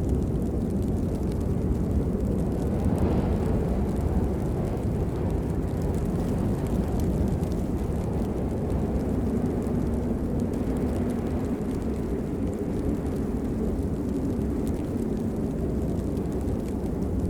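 Steady rainfall, a continuous even wash of noise weighted toward the low end, with no separate drops or breaks.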